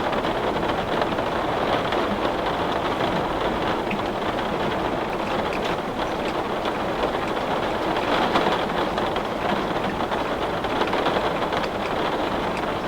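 Heavy rain pattering steadily on window glass, a dense even hiss with scattered sharper drop ticks.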